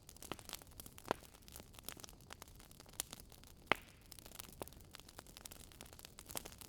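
Fire crackling: irregular small pops and snaps over a soft hiss, with one sharper pop a little past halfway.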